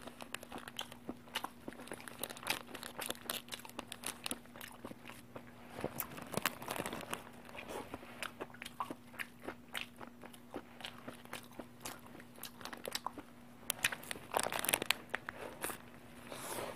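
A person chewing and biting into a hamburger close to the microphone, with wet mouth clicks and crackles throughout. Louder bursts come about six seconds in and again near the end, and a faint steady hum lies underneath.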